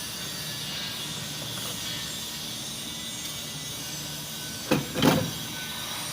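Steady workshop background noise, an even hiss over a low hum, broken by two sharp knocks close together about three quarters of the way through, the second louder.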